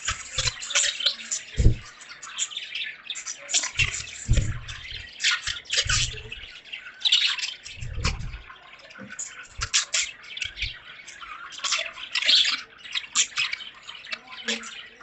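A flock of budgerigars chirping and chattering in a fast, continuous stream of short high calls, with dull low thuds every second or two.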